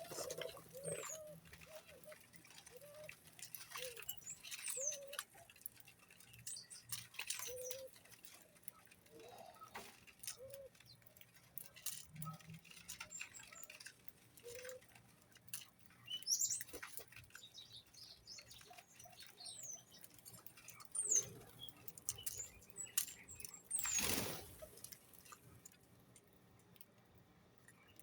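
Birds moving about close by, with scattered light taps and flutters, short falling high chirps and soft low calls. There are a few louder brief rushes of noise, the biggest near the end.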